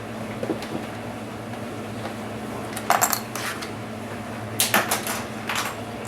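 Small hard clicks and clatters of a Dell Inspiron 1525 laptop's plastic and metal parts and screws being handled while it is taken apart. The clicks come in two short clusters, about three seconds in and again around five seconds in, over a steady low hum.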